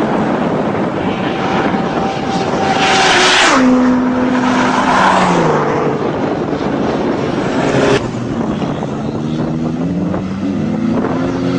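Loud wind rush from a vehicle at speed over a running engine whose note falls in steps as it slows, with a short, louder rush of noise about three seconds in.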